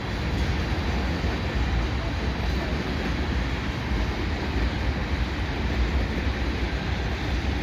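Freight train cars rolling past at steady speed: a continuous, even noise of steel wheels on rail, heaviest in the low end.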